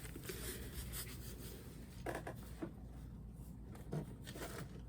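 Faint handling noises from hands moving small objects, with light rubbing and a few soft taps about two seconds in and again near four seconds.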